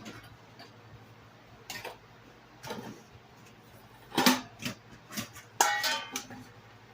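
Dishes and kitchenware being handled and set down: a string of separate knocks and clinks, the loudest about four seconds in, and one clink about five and a half seconds in that rings briefly like crockery or metal.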